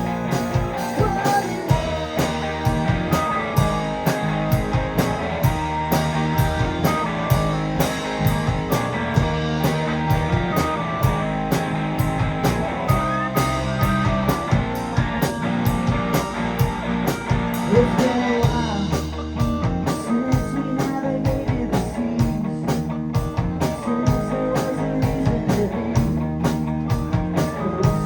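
Live rock band of electric guitar, bass, drums and keyboards playing a passage without vocals over a steady drum beat. The high cymbal sound drops away about two-thirds of the way through.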